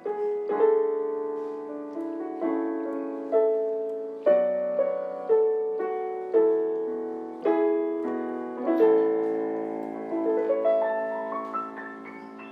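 Background piano music: a slow, gentle melody with chords, notes struck about once a second and left to ring and fade.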